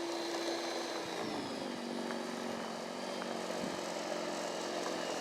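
Snow blower engine running steadily under load, its pitch dropping about a second in and holding lower as it works hard through deep snow, close to struggling.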